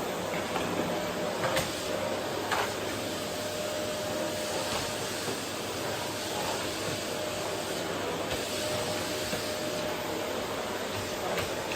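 Vacuum cleaner running steadily, a rushing of air with a steady motor whine, and a few short clicks as it works a wooden floor.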